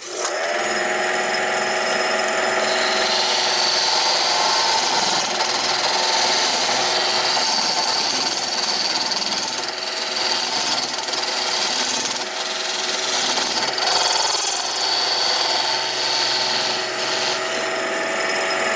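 Wood lathe switched on, its motor whine rising as it spins up, then a turning tool cutting into the spinning wooden blank with a steady scraping hiss. The tool comes off about 17 seconds in, and the lathe starts to spin down at the very end.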